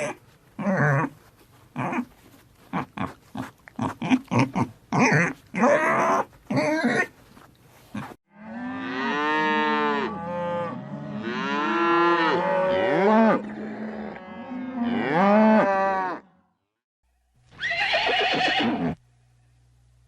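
Farm animals calling in a run of short clips: first many quick, sharp calls, then several long overlapping calls that rise and fall in pitch, taken for cattle mooing, and one short call near the end.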